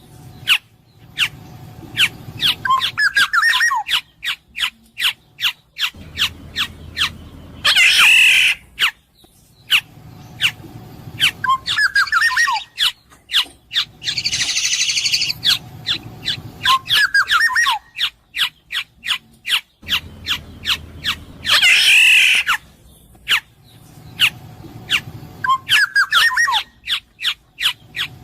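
Black-naped oriole calling: short falling whistled notes and harsh rasping squawks among rapid sharp clicks, the same sequence coming round again about every 14 seconds.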